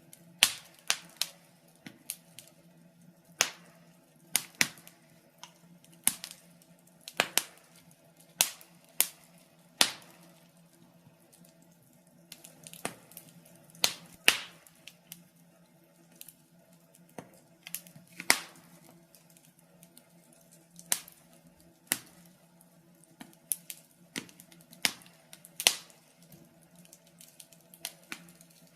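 Wood fire burning in a fireplace, crackling with irregular sharp pops and snaps, some clustered and some spaced a few seconds apart, over a faint steady hum.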